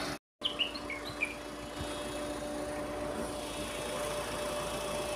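A few short, falling bird chirps about half a second to a second in, over a steady low hum from a vehicle engine idling. The sound drops out for a split second near the start.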